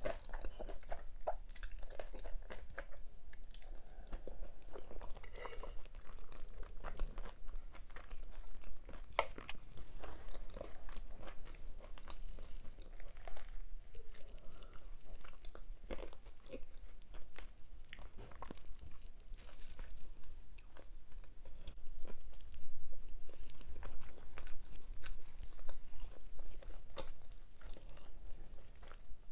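Close-miked eating sounds: a person biting and chewing food, with many irregular small crunches and wet mouth clicks.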